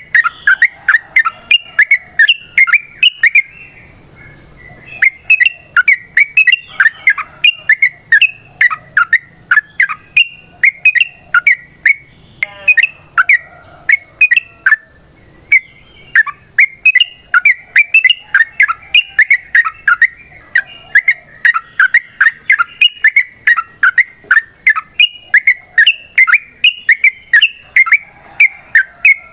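Yellow-vented bulbul (trucukan) singing a long, rapid chattering song of short sweeping notes, several a second, with brief breaks about four seconds in and again near the middle. A steady high whine runs underneath.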